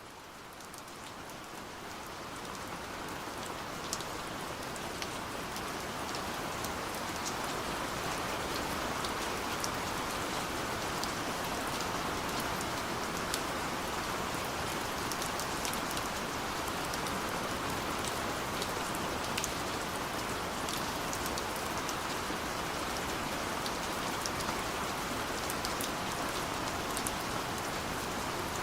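Steady rain falling, a dense hiss of drops with scattered individual drop ticks. It fades in over the first few seconds and then holds level.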